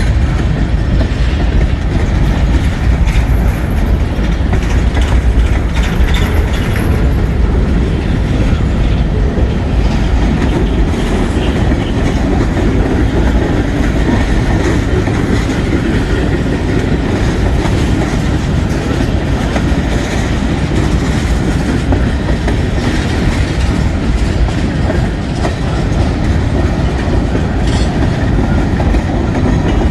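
Freight train rolling past, a steady loud rumble of steel wheels on the rails.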